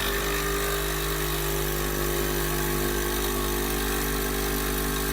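Krups Nespresso machine's water pump buzzing steadily as it pushes water through the capsule. It starts suddenly. Only water comes out, without coffee, which the owner puts down to the capsule not being pierced because it is seated too high.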